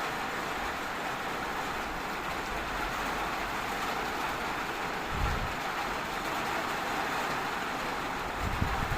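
Steady rain falling, an even hiss, with two brief low thumps, one about five seconds in and one near the end.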